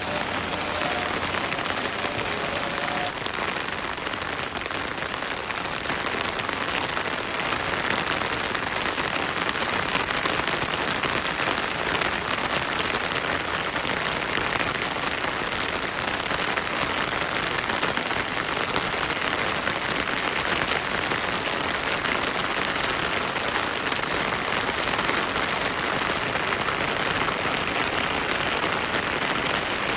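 Heavy rain falling steadily in a forest, a dense, even hiss of drops, with a stream running beneath it.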